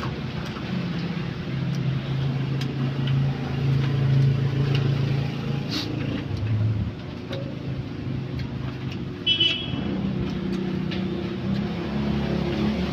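A motor vehicle's engine running with a low hum that shifts in pitch, with scattered light clicks and a short high tone about nine seconds in.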